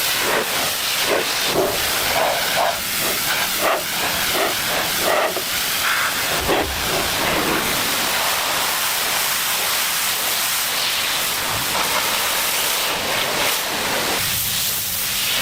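A steady, loud hiss, like a jet of spray or compressed air, with a run of short, irregular knocks in the first half.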